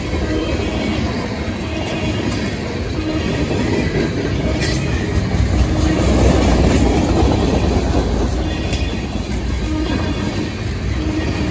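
Freight train cars, tank cars and a covered hopper, rolling past close by: a steady rumble and clatter of steel wheels on the rails, with a single sharp clank about four and a half seconds in.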